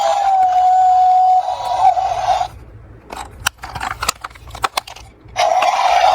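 Diecast toy cars rolling down a slope: a steady rolling scrape with a high whine in it stops after about two and a half seconds. A few sharp clicks and knocks follow, and the rolling starts again near the end.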